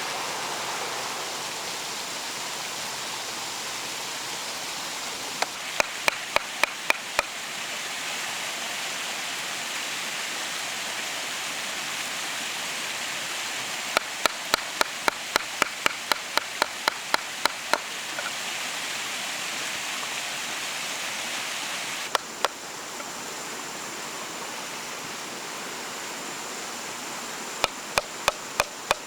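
Runs of quick, sharp knocks, about four to five a second, in bursts of several strikes with pauses between, over a steady rushing noise.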